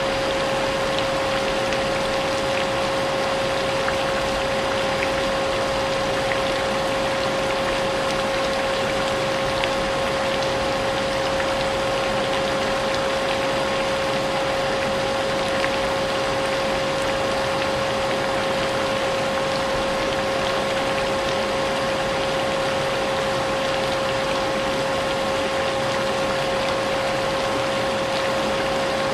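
Vacuum cleaner running steadily with a constant whine, mixed with the sound of rain falling.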